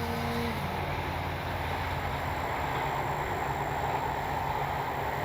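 Distant whine of an RC plane's electric motor and propeller, cut off about half a second in, as when the throttle is pulled back. A steady low rumbling outdoor noise runs under it and continues after the whine stops.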